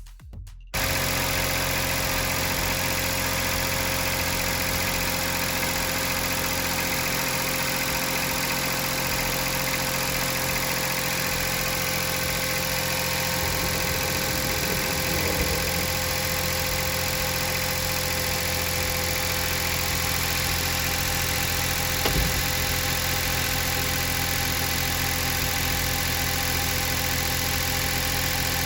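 Daihatsu Atrai Wagon's 660 cc three-cylinder engine idling steadily with loud mechanical noise, the sound of a worn engine past 110,000 km that burns a lot of oil.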